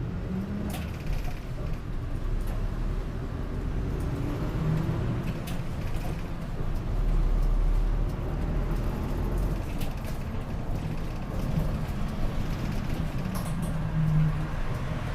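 Inside a Gifu Bus city bus while it runs: a steady low rumble of engine and road noise, with a few light rattles and clicks from the cabin.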